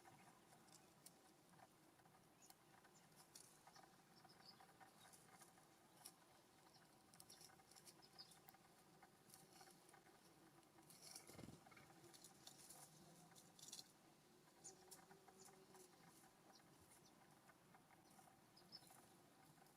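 Faint, scattered ticks and light patter, typical of birds pecking and scratching at seed on a ground feeder, with a soft knock about eleven seconds in.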